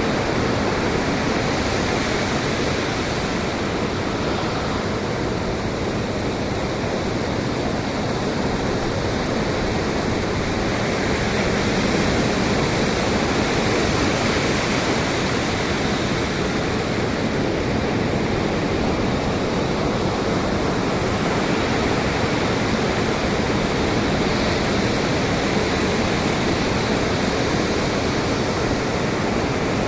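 Ocean surf and wind making a steady, even wash of noise, swelling slightly about midway.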